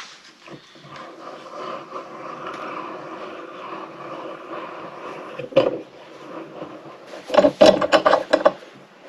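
Wooden bed slats being worked during a glue-up: a steady scraping rub on wood, a single knock a little past halfway, then a quick run of wooden knocks and clatter near the end.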